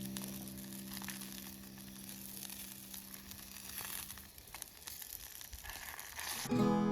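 Wood fire burning in a steel fire pit, crackling and hissing softly. A held music note fades out in the first few seconds, and guitar music starts near the end.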